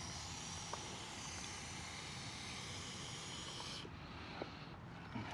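Aerosol chain wax spraying onto a motorcycle drive chain, one long steady hiss that cuts off about four seconds in.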